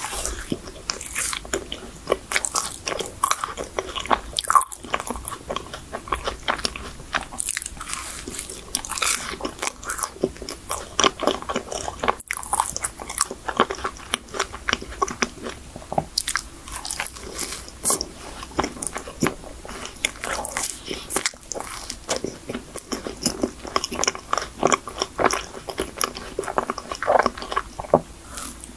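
Mouth sounds of someone biting into and chewing a chocolate cream-filled choux pastry (cream puff): a steady run of many small, sharp clicks and crackles.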